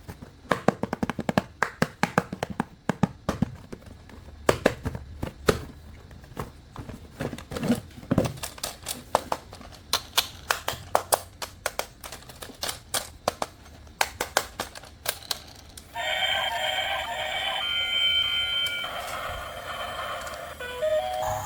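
Plastic toy and its packaging being handled: an uneven run of sharp clicks and taps. About sixteen seconds in, a battery-powered toy's electronic tune starts and plays louder.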